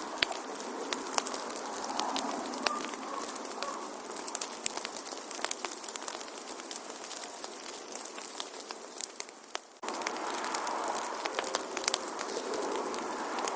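Wood fire in a fireplace crackling: a steady hiss of flames with frequent sharp pops and snaps. About ten seconds in the sound dips briefly, then comes back abruptly.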